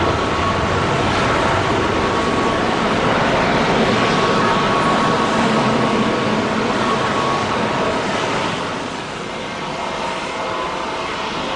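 Boeing 777-300ER's twin GE90 turbofan jet engines running loud and steady, a dense rush with whining fan tones on top. The noise eases a little about eight seconds in.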